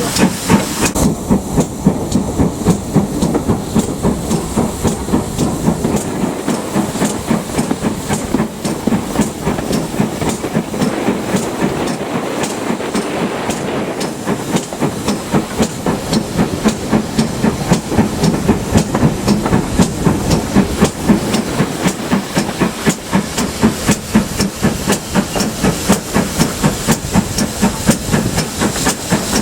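GWR Manor-class two-cylinder 4-6-0 steam locomotive working hard under steam, a steady run of loud exhaust beats over the hiss of steam. The beats soften for a few seconds around the middle, then come back strongly.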